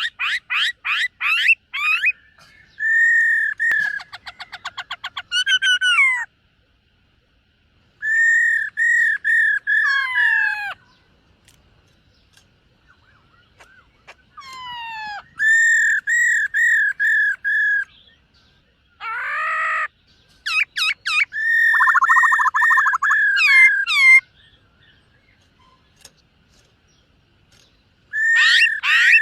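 Black-throated laughingthrush singing: phrases of repeated clear whistled notes and quick sweeping, trilled notes, each a few seconds long, separated by pauses.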